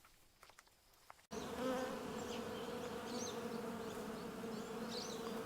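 Bees buzzing steadily, starting suddenly just over a second in, as a cartoon sound effect.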